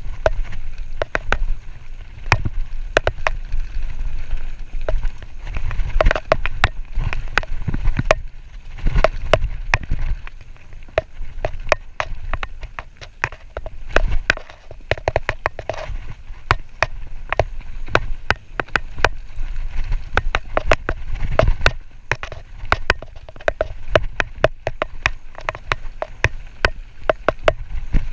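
Mountain bike ridden down a rough dirt trail: a steady stream of sharp rattles and clacks from the bike over the bumps. Low wind rumble on the microphone swells and fades under them.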